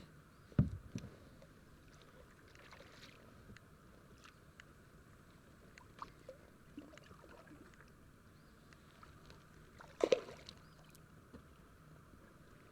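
Faint handling sounds from a plastic sit-on-top kayak on the water: a low knock against the hull about half a second in, scattered small clicks and taps, and one short louder noise about ten seconds in.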